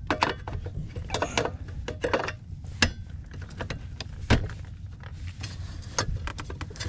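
Scattered clicks and knocks of metal parts being handled: a heat pump's electrical disconnect being put back in and its box closed, over a low steady rumble.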